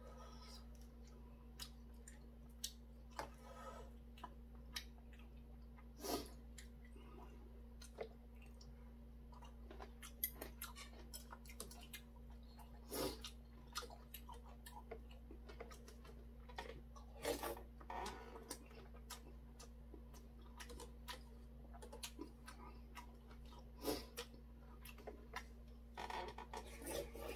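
A person chewing boiled chicken, with scattered short clicks of chopsticks and a metal spoon against a stainless steel bowl, over a steady low hum.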